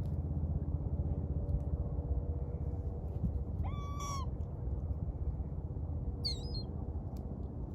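Gulls calling over a steady low rumble: one drawn-out cry about four seconds in that holds its pitch and then drops away, and a shorter, higher call about two seconds later.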